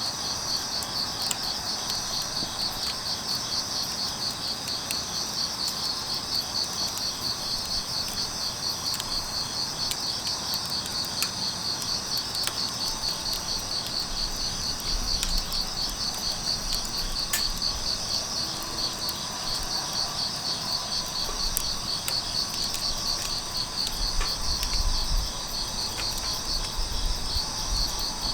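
Crickets chirping in a steady, rapidly pulsing trill, with scattered sharp crackles and pops from a burning wood fire.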